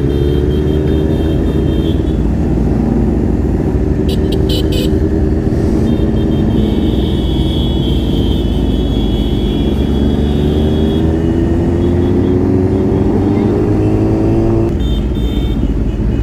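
Motorcycle engine running while riding at low speed, its pitch climbing slowly and falling back sharply near the end, over a steady low rumble. A few brief clicks come about four seconds in.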